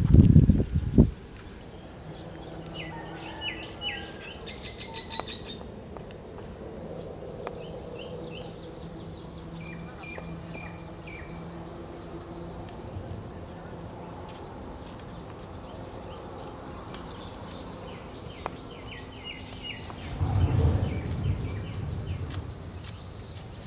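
Small birds chirping in several quick series of short high calls over steady outdoor background noise. Loud low thumps close to the microphone come right at the start and again about twenty seconds in.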